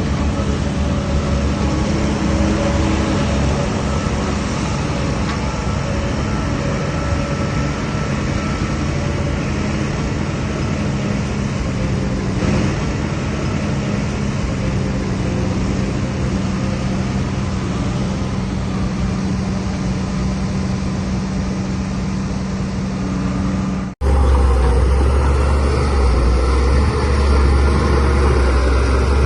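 DH17C3PRO bulldozer's diesel engine running steadily. An abrupt cut near the end switches to a louder, deeper engine rumble.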